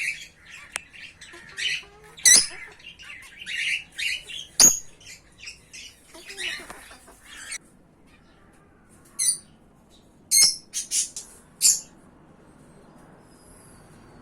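Pet parrots (lovebirds and Australian parrots) squawking and chirping: a dense run of sharp, high calls for about seven seconds, a pause, then a few loud squawks.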